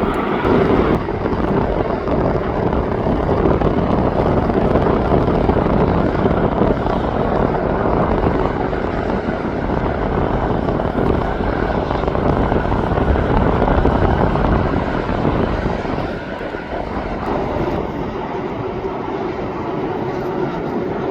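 Jet airliner's engines running, a loud steady rush of noise with a low hum that eases slightly about sixteen seconds in.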